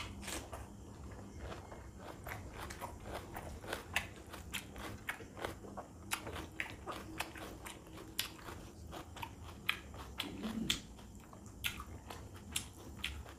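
Close-miked eating by hand: chewing and lip smacking of water-soaked rice (panta bhat) with chicken curry, a dense run of sharp, irregular wet clicks several times a second. A brief low hum about ten seconds in.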